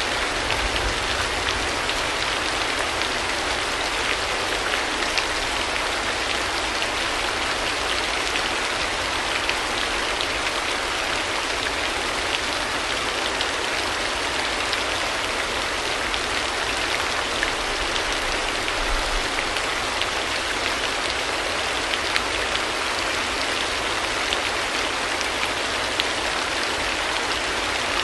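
Steady rain falling, an even hiss with a dense patter of small drops that does not let up.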